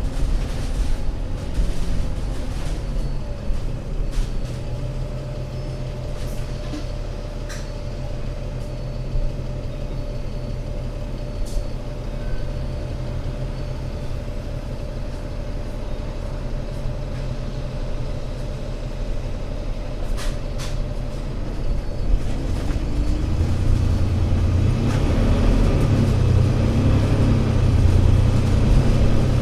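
Diesel engine of an Alexander Dennis Enviro500 MMC Euro 6 double-decker bus running steadily with a low hum and a held whine, with a few brief hisses of air. Near the end it grows louder and heavier as the engine picks up revs.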